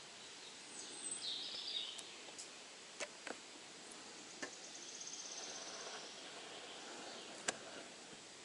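Faint birdsong over quiet outdoor ambience: a burst of short high chirps about a second in and a fine high trill in the middle, with a few sharp clicks scattered through.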